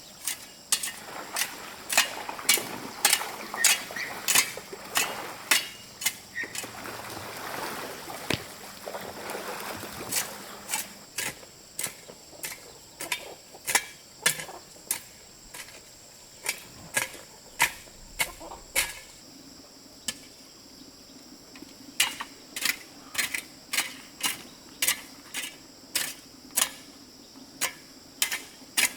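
A steady run of sharp knocks or taps, about two a second, pausing briefly about two-thirds of the way through.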